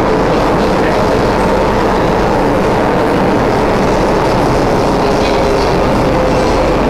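SMRT C751B electric metro train running at speed: a steady, loud rush of wheels on rail with a faint constant hum.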